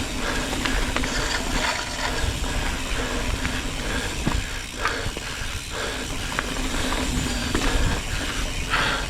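Mountain bike riding over a dirt trail, its rear hub freewheel ratcheting with rapid clicks over a steady rumble of tyres and rattling of the bike.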